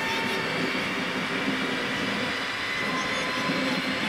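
PKP Intercity ED250 Pendolino electric train rolling past at close range: steady wheel-on-rail running noise with a faint continuous hum.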